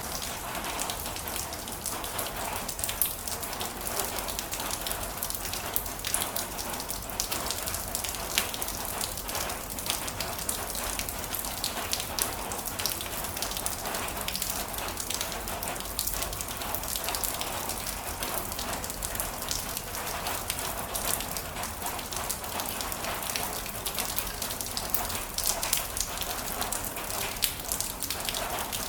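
Heavy rain falling steadily, a dense even hiss thick with the ticks of individual drops hitting a surface.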